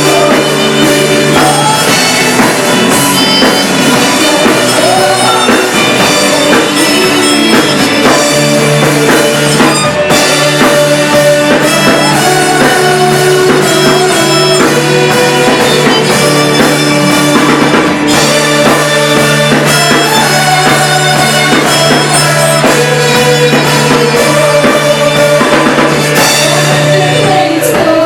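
Live worship band rehearsing a song, drum kit keeping a steady beat under guitar and held instrumental notes, with no singing.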